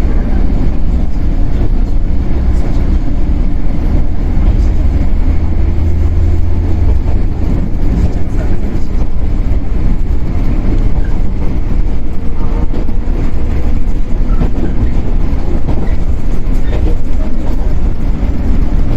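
Running noise inside a Shinano Railway 115-series electric motor car (KuMoHa 115-1013): a loud, steady, low rumble of the traction motors and the wheels on the rails, heavier about four to seven seconds in.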